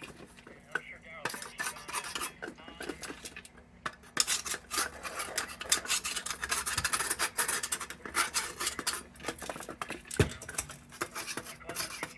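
Irregular metal scraping, clinking and rattling while junk is cleaned out of a kerosene heater's metal fuel fount, busier after the first few seconds.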